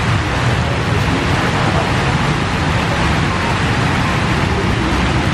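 Steady rain falling on wet pavement, with a constant low rumble underneath.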